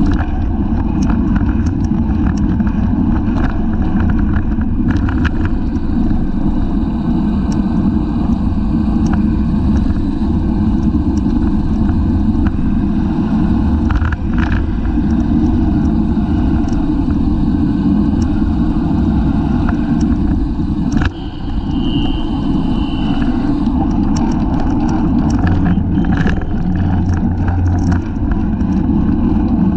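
Steady rushing wind buffeting the microphone of a bicycle-mounted camera at racing speed, with scattered clicks and rattles from the bike and a short high tone about two-thirds of the way through.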